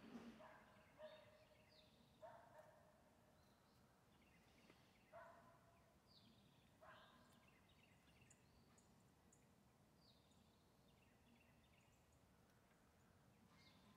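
Faint bird calls: a run of short, harsh calls repeated every second or two, thinning out after the first half, with a few higher falling notes later on.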